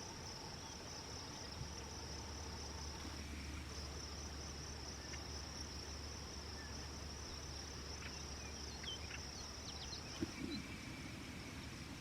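Insects trilling steadily in a single high-pitched band, with a faint low hum through the first half.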